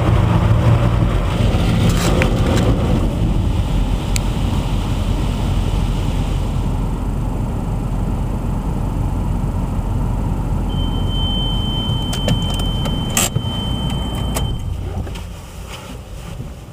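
Automatic car wash machinery running with a loud steady low rumble. A high steady tone sounds for about four seconds past the middle, and the noise quietens near the end.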